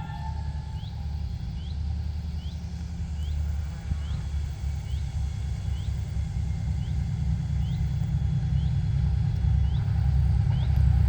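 Diesel locomotive's 10D100 two-stroke opposed-piston engines running with a deep, steady rumble that grows louder as the locomotive approaches. The tail of a horn blast fades in the first moments. A short, high, falling chirp repeats about once a second.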